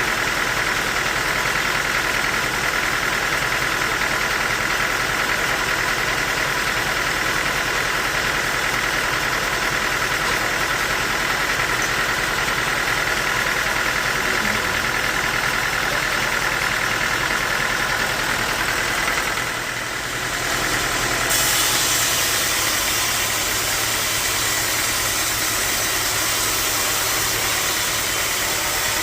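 Bandsaw sawmill machinery running steadily. About two-thirds of the way through, the sound dips briefly and then turns brighter and hissier.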